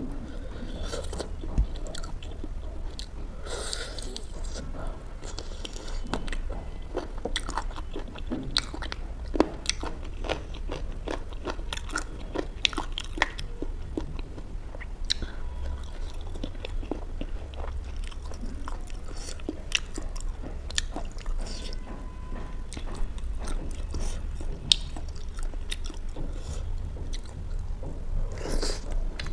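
Close-up chewing and biting of butter chicken and butter naan eaten by hand. Irregular sharp clicks of the mouth and food play over a low steady hum, with a louder bite near the end.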